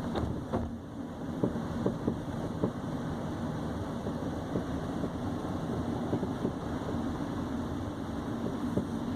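Nissan Sentra B17 on the move, a steady low rumble with frequent irregular knocks and clunks from the front right suspension: the metallic knocking the owner reports in the suspension on that side.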